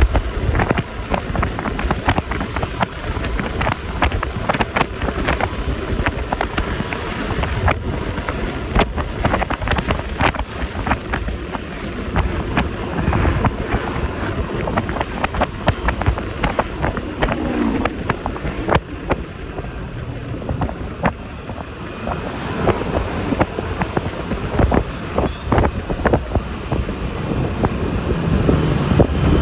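Wind buffeting the microphone on a moving Yamaha Lexi LX 155 scooter, crackling and gusting over the scooter's single-cylinder engine and road noise.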